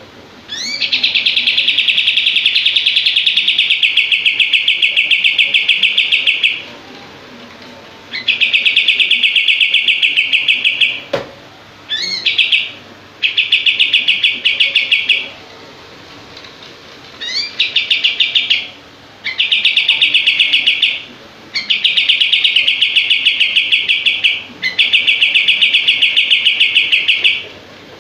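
A kapas tembak songbird singing in repeated bouts of very fast, closely packed rapid-fire notes, each bout opening with a quick rising sweep. The bouts run from about one to six seconds, with short pauses between them. A single sharp click sounds about eleven seconds in.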